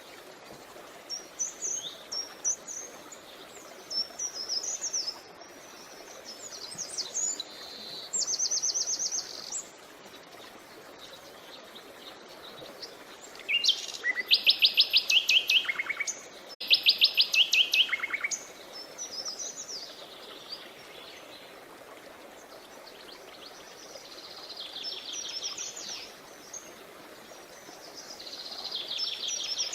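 Songbirds singing in short phrases and fast trills. The two loudest trills come a little past the middle. A steady rush of creek water runs beneath them.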